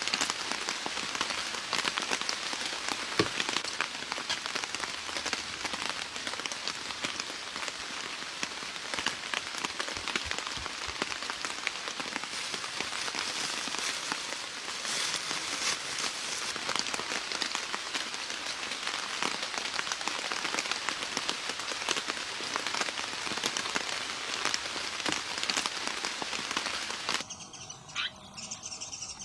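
Steady, dense patter of rain on a surface, made of many small drops. It cuts off abruptly near the end and gives way to a quieter background.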